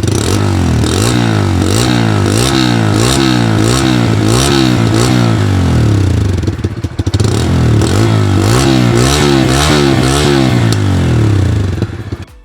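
Single-cylinder 125cc commuter motorcycle engine revved through its exhaust in quick repeated throttle blips, the pitch rising and falling over and over above a steady idle. There is a brief dip about seven seconds in, and the engine stops near the end.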